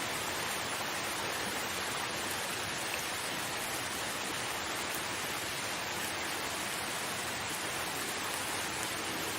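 Steady rain, an even, unbroken hiss with no separate drops or changes.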